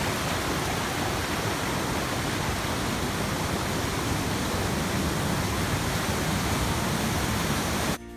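Rushing water of a fast, strong stream flowing down from a waterfall: a steady, even rush that cuts off suddenly near the end.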